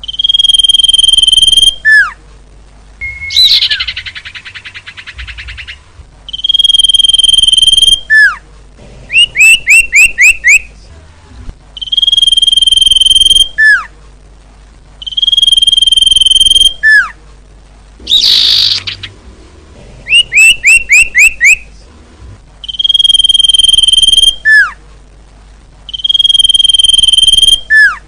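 Female common iora (cipoh/sirtu) calling, the call used to lure males: a long steady whistle that ends in a quick downward slur, repeated every few seconds, mixed with two quick runs of about five short down-sweeping notes and two harsh rasping calls.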